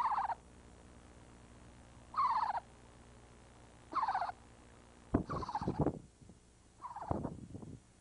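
A bird calling five times, about every two seconds: short calls that each fall in pitch. The last two are mixed with low bumping and scuffling.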